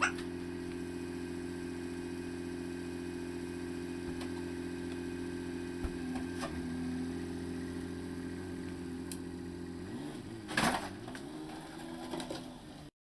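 Tohatsu four-stroke outboard motor running at a steady idle. Near the end its pitch dips and wavers with a clunk, then the sound cuts off suddenly.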